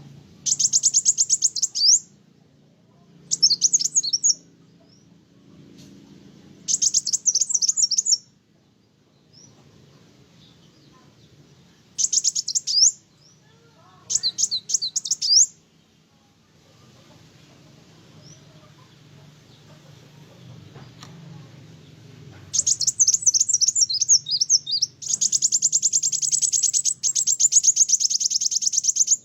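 Kolibri wulung sunbird singing: short bursts of rapid, high, chattering twitter, then a longer unbroken run of song over the last few seconds.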